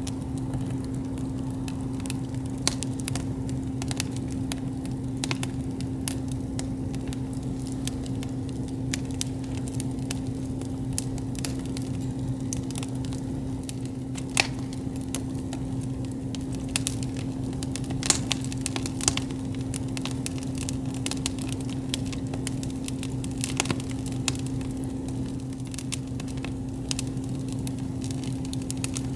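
Wood campfire crackling, with irregular sharp pops and snaps a few times a second, one louder snap about 18 s in. A steady low hum runs underneath.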